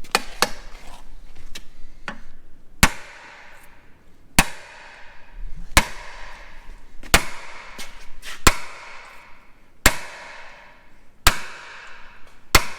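Hammer striking metal repeatedly, about ten sharp blows roughly every second and a half, each ringing briefly.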